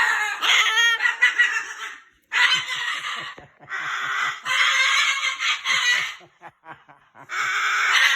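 Umbrella cockatoo screeching: harsh, drawn-out squawks in four long stretches with short breaks between them.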